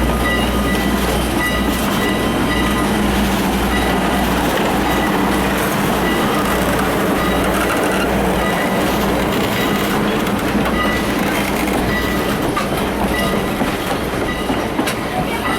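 Passenger train in motion, heard from aboard a coach: steady wheel-on-rail running noise with a low rumble underneath.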